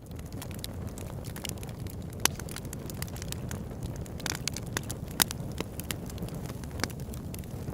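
Campfire crackling: irregular sharp pops and snaps from the burning wood over a steady low rumble of the flames.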